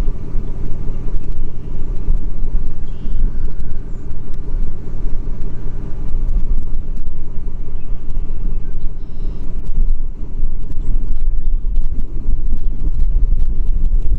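A motor vehicle's engine running steadily while driving, a loud low rumble with a steady engine hum.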